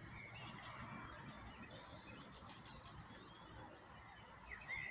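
Faint birds chirping: scattered short calls, clustered around the middle, over low background noise.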